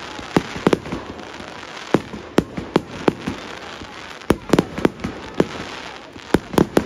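Aerial fireworks bursting: a dozen or so sharp bangs at uneven intervals, some in quick clusters, over a steady crackling haze.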